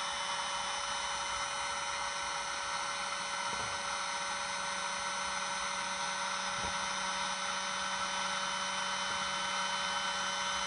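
Electric air pump running steadily, filling a giant balloon as the pressure inside builds.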